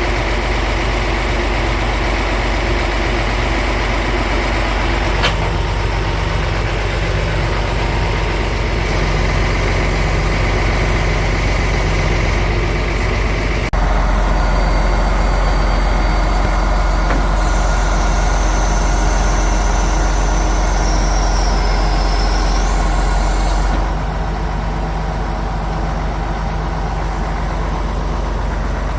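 Diesel engine of an Iveco 380E42 heavy 6x6 truck running steadily at idle. The sound steps louder about halfway through and drops back again near the end.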